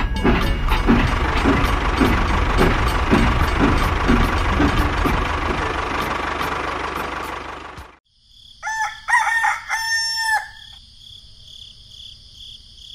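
A toy locomotive running on its track, a steady rumbling chug with regular clicking, cuts off abruptly about eight seconds in. A rooster crows twice shortly after.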